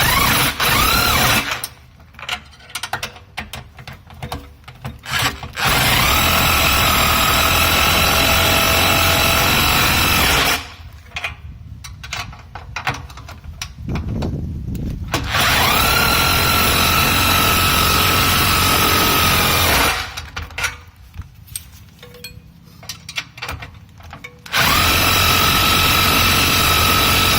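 A handheld power tool run in four stretches of a few seconds each, spinning up quickly to a steady whine with a hiss, while the exhaust pipe and glasspack are worked on; light clatter and handling noise in the pauses between.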